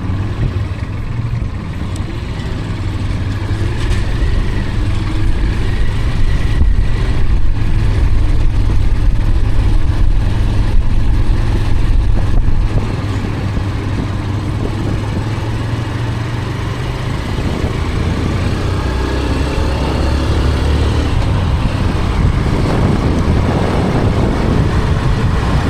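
Road and engine noise of a vehicle driving onto a highway: a steady low rumble that builds over the first dozen seconds, drops suddenly about halfway through, then slowly rises again.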